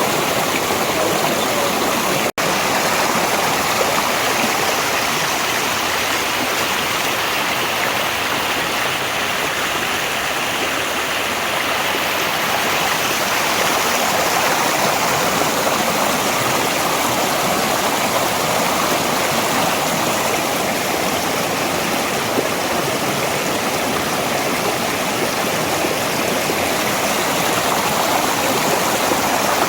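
Valley stream flowing steadily, a continuous rush of water. There is a momentary break in the sound about two seconds in.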